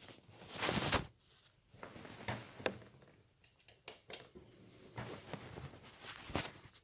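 Scattered light clicks and brief rustles of handling noise, the loudest rustle about a second in.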